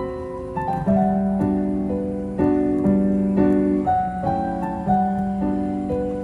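Background music: a piano playing a slow, gentle melody of sustained notes struck about once or twice a second.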